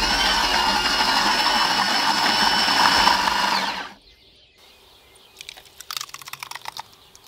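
Electric blender running at steady speed, pureeing raspberries, with a motor whine. It switches off about four seconds in, leaving faint clicks and taps.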